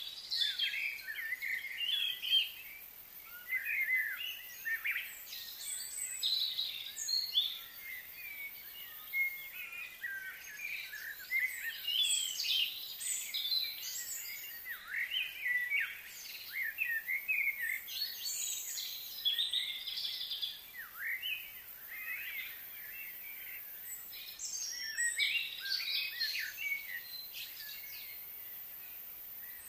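Songbirds chirping and singing, many short overlapping calls and quick rising and falling whistles, without a break.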